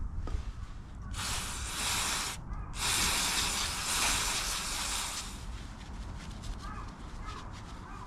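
Two bursts of steady hissing, the first about a second long and the second about two and a half seconds, over a low background rumble.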